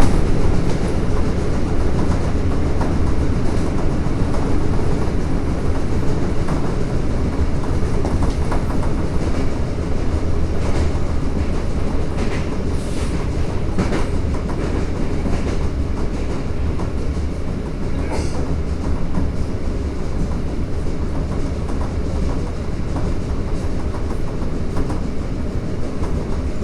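Toei Asakusa Line 5300-series subway train running between stations, heard from inside the car: a steady rumble of wheels and motors, with occasional clicks of the wheels over rail joints.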